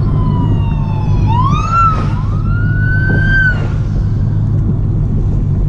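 Car engine revving hard as the car speeds past, over the low rumble of the car carrying the camera. The engine note climbs sharply, drops at a gear change about two seconds in, then climbs again and holds high before fading.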